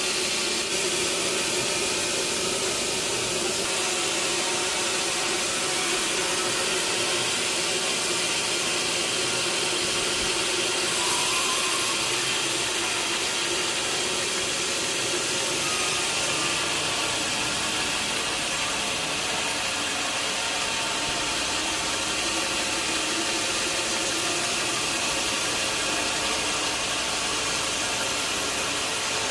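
Sawmill machinery running steadily: a constant mechanical hum with several steady tones under a broad hiss.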